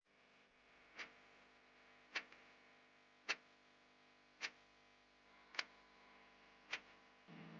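Faint, even ticking: six sharp clicks a little over a second apart over a low steady hiss.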